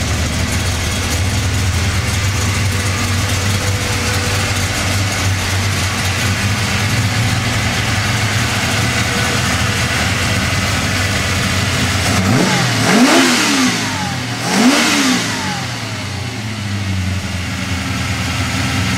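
1972 GMC Sprint resto-mod's engine idling steadily, then revved up twice in quick succession about two-thirds of the way through, each rev rising and falling back before it settles to idle again.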